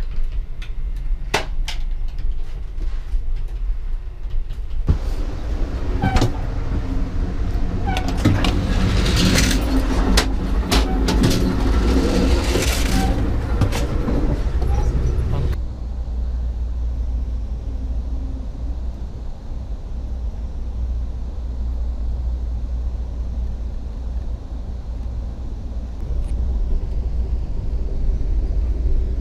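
Moving passenger train heard from inside the cars: a steady low rumble of the train on the rails. From about five seconds in there is a louder stretch of rattling and clicking clatter lasting about ten seconds, as the doors and connections between cars are passed through. It then stops abruptly and leaves a steadier, duller rumble.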